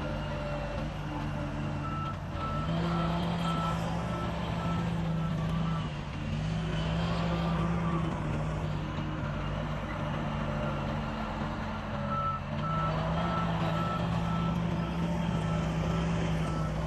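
A heavy construction machine's diesel engine runs under load while its reverse alarm beeps about twice a second. The beeping comes in two spells, one a couple of seconds in and another in the last few seconds. The engine note rises each time the machine backs up.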